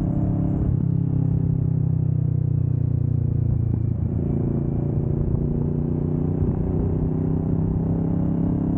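Kawasaki Vulcan S 650's parallel-twin engine running steadily while riding, its pitch easing down over the first few seconds, then rising a little about four seconds in and holding steady.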